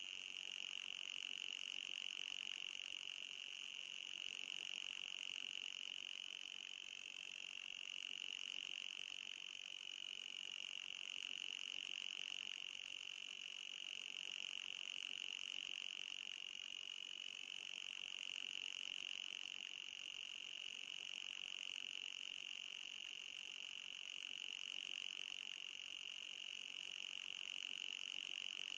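Anti-mosquito repellent sound: a steady, high-pitched buzz with a fainter, higher band above it, its pitch wavering slightly every few seconds.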